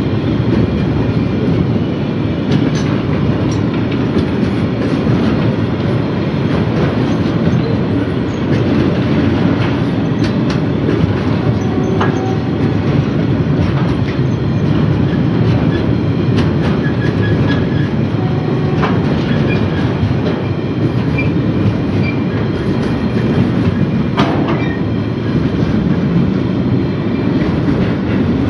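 Container freight train's wagons rolling past on narrow-gauge track: a steady, loud rumble with scattered wheel clicks and a few brief wheel squeals.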